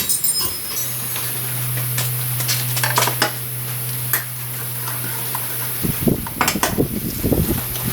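Light metallic clinks and clicks over a steady low hum, with a run of irregular low knocks and clunks starting near the end.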